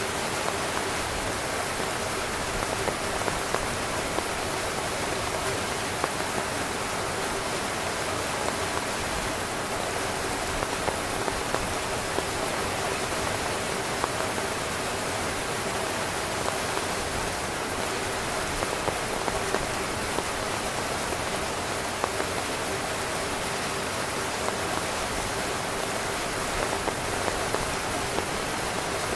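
Heavy rain drumming steadily on a tent's fabric, a dense hiss with individual drops ticking sharply here and there.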